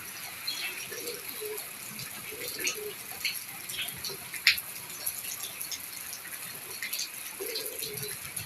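Rain falling, with irregular drips and taps over a steady hiss; one sharper drip about halfway through.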